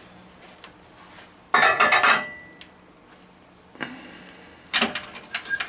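Metal clanks and clinks of turning tools being handled at a wood lathe, in two clusters: a loud one about one and a half seconds in with a short ring after it, and another near the end. A faint steady hum runs underneath.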